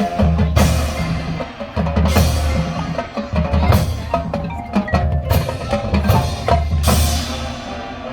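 High school marching band playing its field show: low brass and drums under pitched mallet percussion, with four loud crashes spread through the passage.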